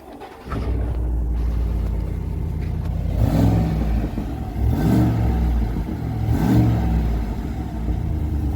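Chevrolet Silverado's 6.2-litre petrol V8 on its standard factory exhaust starting up about half a second in and settling to an idle. It is then revved three times, each blip rising and falling in pitch.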